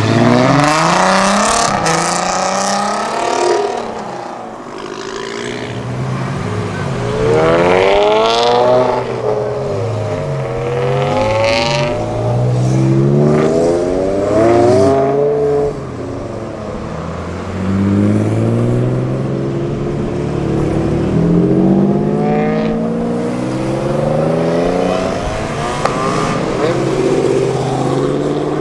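Modified performance cars accelerating hard one after another, each engine note climbing through the revs and dropping back at the gear changes. A few sharp exhaust cracks cut through now and then.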